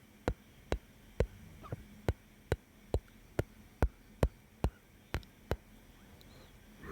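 A steady series of sharp mouth clicks, a little over two a second and about a dozen in all, stopping a second or so before the end. They are close-miked ASMR mouth sounds.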